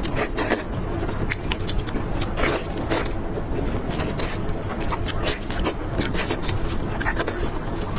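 Eating sounds: scattered clicks and scrapes of utensils against a dish, over a steady low rumble.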